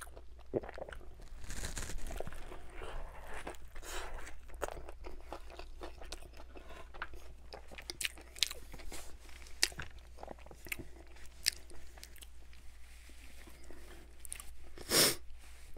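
Close-up chewing of a big crispy fried buffalo chicken sandwich: crunching of the breaded chicken and bun, with many short wet mouth clicks. A brief, louder burst of noise comes near the end.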